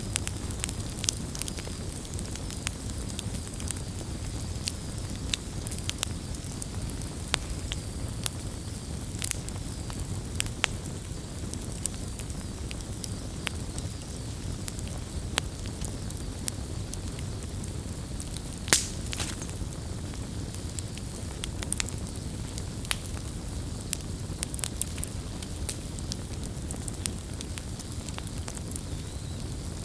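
Campfire burning, with a steady low rumble and frequent irregular crackles and pops of wood, one louder pop a little past halfway.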